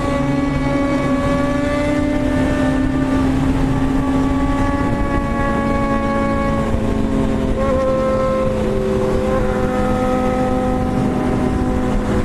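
Motorcycle engine running steadily under way, over wind and road noise. Its pitch holds, then drops a little about five seconds in and again near eight seconds as the revs change.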